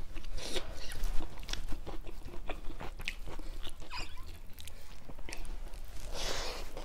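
Close-up sounds of a person eating cooked leafy greens and rice by hand: wet chewing with many small mouth clicks and smacks. About six seconds in there is a short breathy rush as another handful goes into the mouth.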